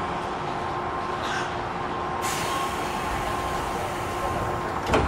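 Inside an Odakyu 1000 series electric commuter car: a steady electrical hum over a low rumble, with a brief hiss of air about two seconds in and a sharp knock near the end.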